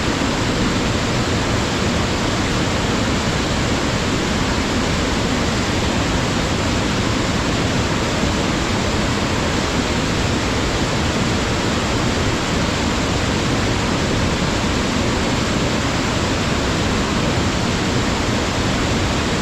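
Waterfall pouring steadily: a dense, even rush of falling water that does not change.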